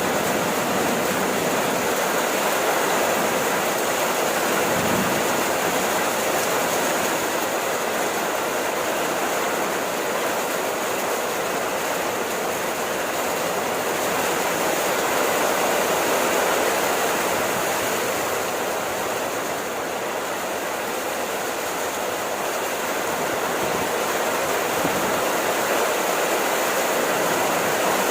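Rain falling steadily, a constant even hiss with no break.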